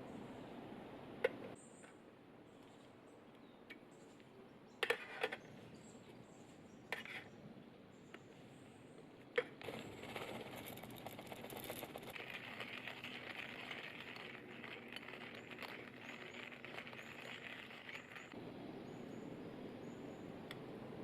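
A few sharp clinks and knocks of camp coffee gear being handled, then a hissing, rushing sound for about six seconds, with short high chirps repeating in the background.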